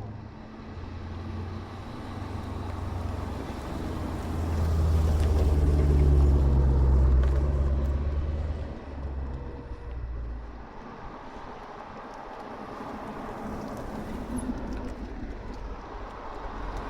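A car driving past with a low engine and exhaust rumble that grows louder to a peak about six seconds in, then fades away.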